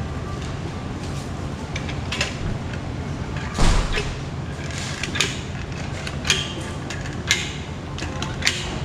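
Scattered sharp knocks and clicks from handling a thin stainless steel hood panel, about six in all, the loudest about three and a half seconds in, over a steady background hum.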